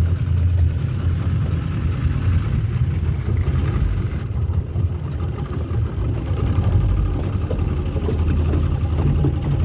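An engine running steadily with a loud, low hum.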